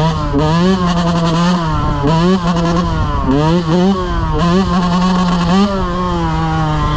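Dirt bike engine under way, revving up and down repeatedly as the throttle is opened and closed.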